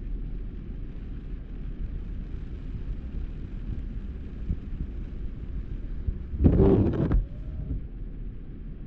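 Steady low road rumble and wind noise inside a moving vehicle with a window open. About six and a half seconds in comes a short, louder burst of noise lasting under a second.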